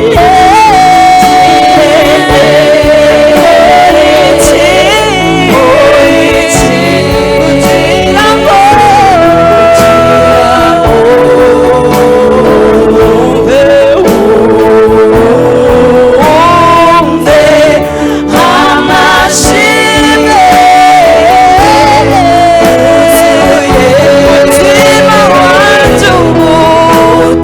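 Gospel song: a solo voice singing a melody over keyboard and bass accompaniment, with singing voices layered in.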